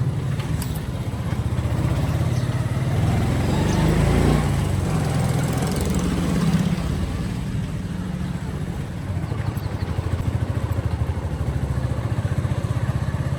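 Motorcycle engine running steadily while riding, a low pulsing hum with road and wind noise; the noise swells louder for a moment about four seconds in.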